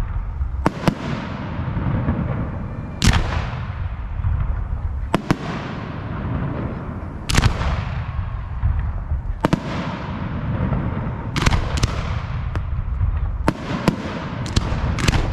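Fireworks display: aerial shells bursting in sharp bangs every two seconds or so, quickening into close pairs and clusters near the end. Each bang fades out over a second or two above a steady low rumble.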